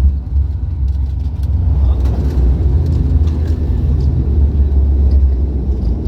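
Cabin noise inside an ATR 72-500 turboprop airliner: a loud, steady low rumble of the Pratt & Whitney PW127 engines and airflow around the landing.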